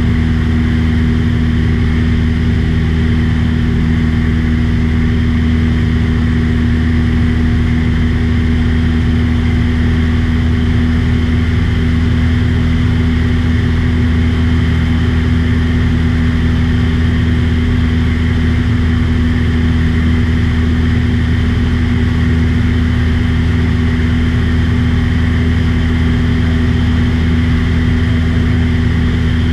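Light aircraft's engine and propeller droning steadily at cruise, heard from on board.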